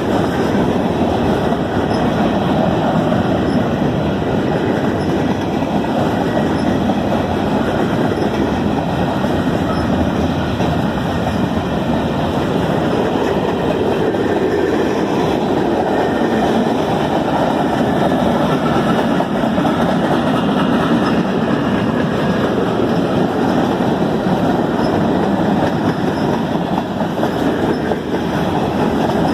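A train passing close by at a level crossing: a loud, steady rumble of its cars rolling over the rails.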